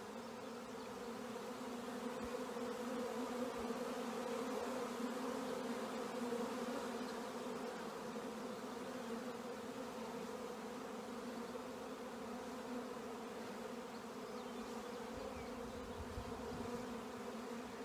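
A swarm of honey bees in flight, many bees buzzing together in a steady, unbroken hum.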